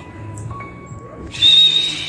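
A high, steady whistled animal call lasting about half a second, starting about one and a half seconds in, over background music with held notes.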